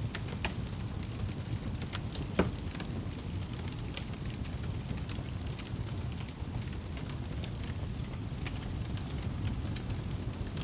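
Wood fire crackling in a fireplace: scattered sharp pops and snaps over a low, steady rumble of the flames, with one louder pop about two and a half seconds in.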